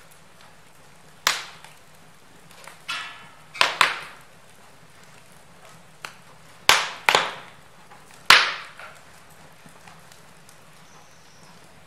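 Wood fire in a fireplace crackling: about half a dozen sharp, irregular pops and snaps, each dying away quickly, the loudest a little past the middle, over a faint steady hiss.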